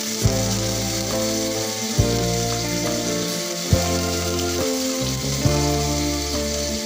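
Food sizzling as it fries in hot oil in a pan, over background music with a bass line and a soft beat.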